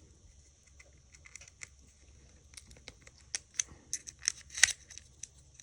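Small sharp clicks and taps of a tool working the SIM card tray out of an iPhone 5, a few faint ticks at first, then a quick cluster of clicks in the second half, the loudest a little before the end.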